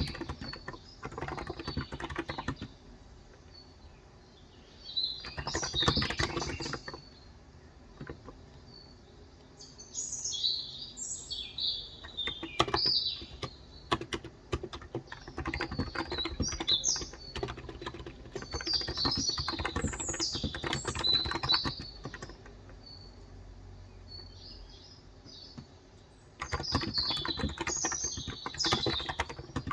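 Typing in bursts on a Cox Endeavor electro-capacitive tenkeyless keyboard with 35 g switches, the runs of keystrokes broken by pauses of a few seconds. Birds chirp in the background throughout.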